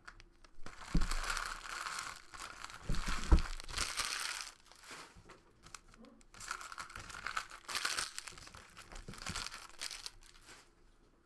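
Plastic trading-card pack wrappers being torn open and crumpled, in two long crinkling stretches, with a couple of dull thumps in the first.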